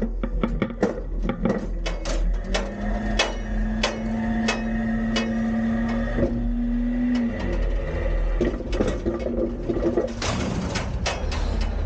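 Autocar front-load recycling truck with a Heil Freedom half pack body dumping a recycling container: rapid clattering and banging of the bin and falling recyclables over the low rumble of the truck. A steady engine tone holds for a few seconds in the middle as the engine is raised to drive the hydraulics.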